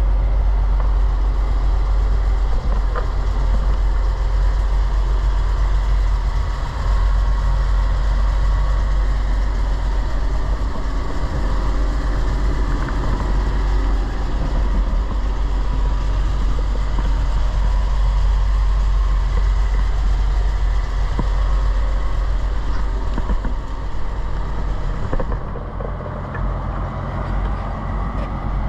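1939 Dodge Brothers TE-32 1.5-ton truck engine idling steadily, a little quieter near the end.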